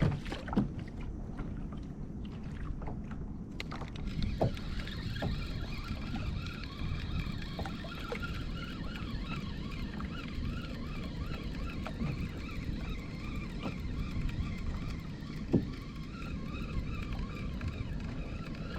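Wind on the microphone and water moving against a kayak's hull, with a few sharp knocks on the boat.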